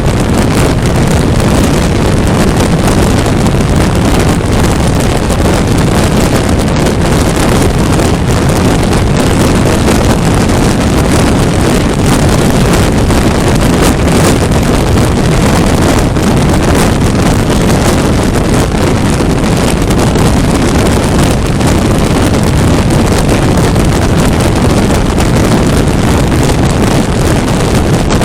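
Loud, steady wind rush on the microphone of a 400cc motorcycle ridden at highway speed, with the engine and road noise underneath it.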